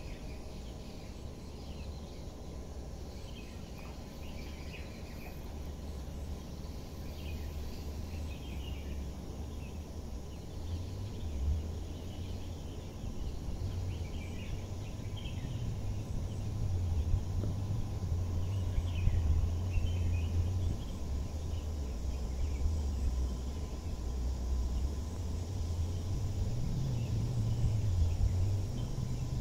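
Low rumble of an MTR West Rail Line electric train moving slowly along a depot track, growing louder from about ten seconds in as it approaches. Birds chirp on and off.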